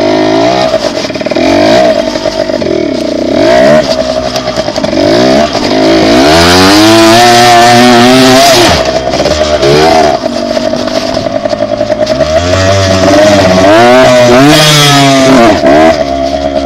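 Dirt bike engine running under throttle, revving up and dropping back again and again as it is ridden. The two longest climbs in pitch come about six seconds in and again around thirteen seconds.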